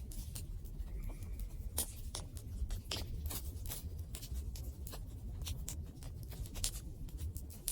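Wood fire burning, crackling with frequent irregular sharp pops over a low steady rumble.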